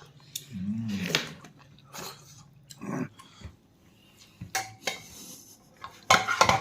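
A person eating pork leg: chewing, with scattered clicks and clinks of dishes and utensils and a short hummed "mm" about a second in.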